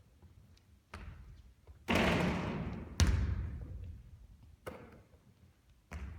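A basketball hitting hard surfaces: about five separate thuds, the two loudest about two and three seconds in, each trailing off in a long echoing decay.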